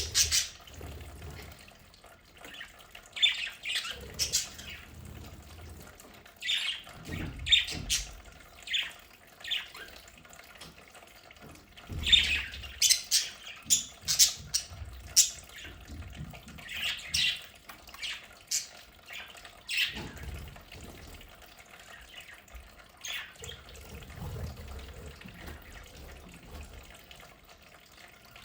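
Budgerigars chirping and squawking in short, scattered bursts, with quieter gaps between the calls.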